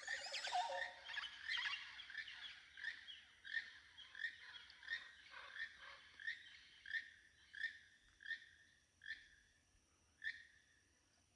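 Rainforest birds calling at dawn, echoing. One bird repeats a short call about every two-thirds of a second, spacing the calls out until it stops near the end. In the first two seconds a burst of many overlapping chattering calls joins it.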